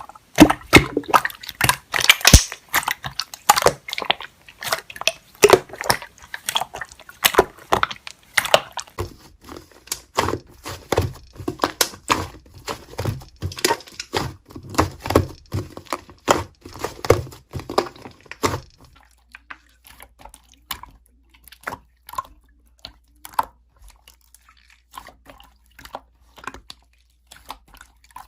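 Slime being played with: a run of wet clicks, pops and squishes, dense at first, then sparser and quieter for roughly the last third.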